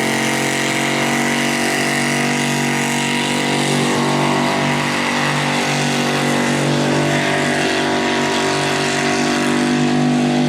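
Straight-piped Ford 351 Cleveland V8 in a mini rod pulling tractor, revved up and held at high RPM at a steady, nearly unchanging pitch under load while pulling the sled.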